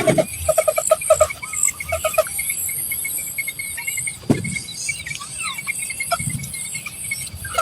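Birds giving quick runs of short, low calls for about the first two seconds, over steady rhythmic chirping of crickets and a high insect drone; a couple of dull thumps come later.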